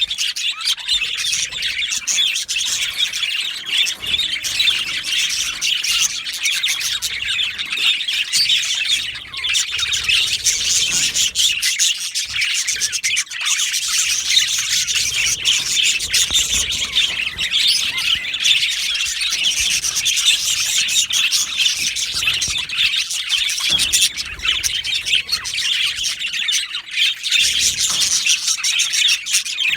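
A group of male budgerigars chattering and chirping nonstop, many high, quick calls overlapping.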